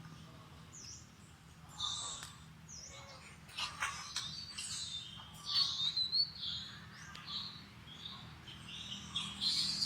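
High-pitched chirping animal calls: short chirps and quick sweeps, with a longer warbling call about halfway through and another near the end.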